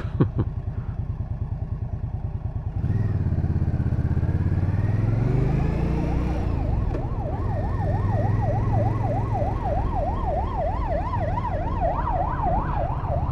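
Indian Scout Bobber's V-twin engine running with a low, even pulse, revving up about three seconds in as the bike gathers speed. From about seven seconds an emergency vehicle's siren wails in a fast, rapid up-and-down yelp over the engine.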